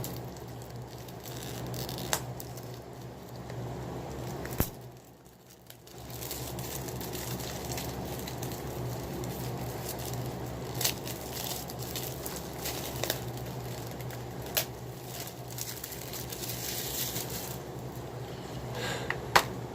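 DVD box-set packaging being handled: crinkling and rustling with scattered sharp clicks over a steady low hum, dying down briefly about five seconds in.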